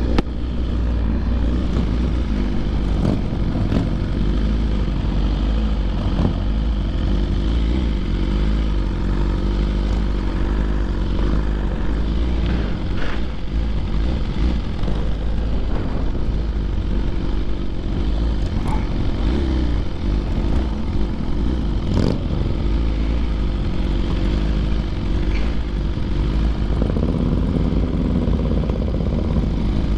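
BMW S1000RR sport motorcycle's inline-four engine running steadily under way, with a heavy low wind rumble on the microphone.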